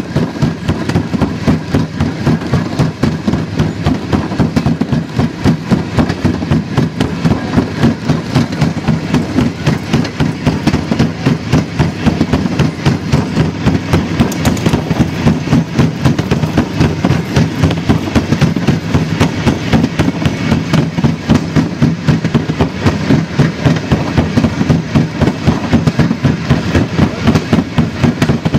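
Railroad speeder (motor track car) running along the rails, its small engine giving a rapid, even train of loud pops.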